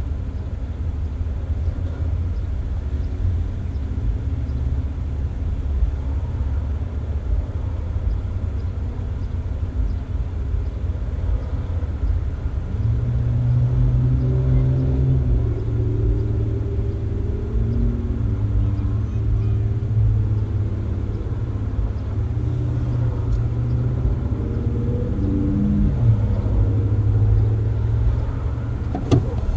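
Car driving with its windows open: steady low road and tyre rumble. About halfway in, an engine's drone joins it, its pitch stepping down once near the end, and a short sharp click comes just before the end.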